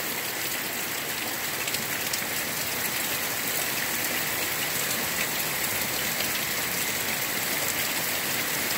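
Heavy rain pouring down in a steady, even hiss, with a few faint drop clicks.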